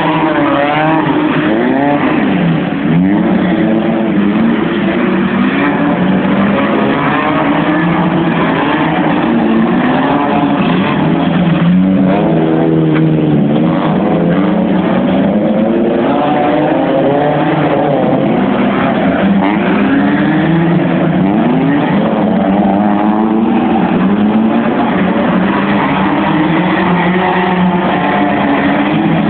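Car engine revving hard over and over, its pitch sweeping up and falling back every second or two, as the car drifts sideways round the wet yard.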